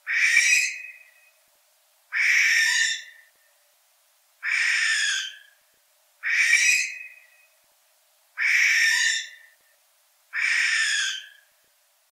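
Barn owl screeching: six screeches, each about a second long, repeated about every two seconds.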